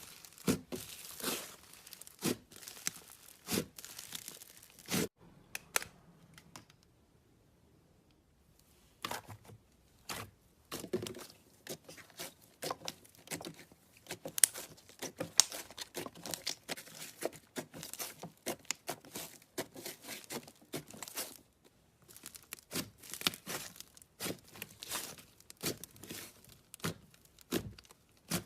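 Slime being squeezed and worked by hand, giving dense, irregular crackling and popping, with a quiet pause of a few seconds about six seconds in.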